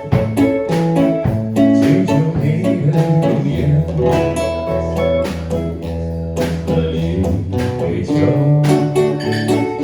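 Acoustic and electric guitars playing an instrumental passage together: strummed chords with melodic notes over them, on a steady beat.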